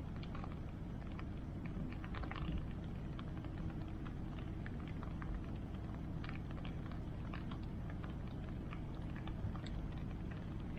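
Wood bonfire crackling, with irregular small pops and snaps over a steady low rushing background.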